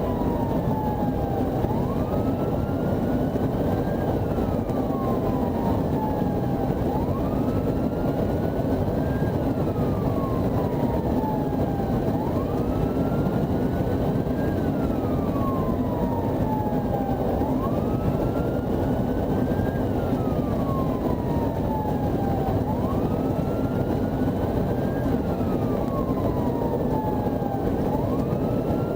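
Police siren on a slow wail, its pitch climbing quickly and then falling away, one cycle about every five seconds, over steady engine and road noise from a moving patrol car.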